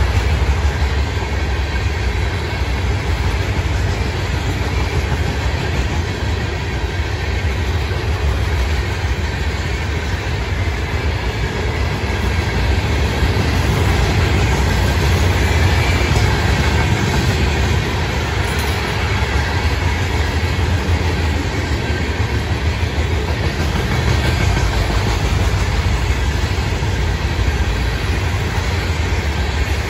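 Loaded rock hopper cars of a freight train rolling past: a steady, loud, low rumble of steel wheels on rail.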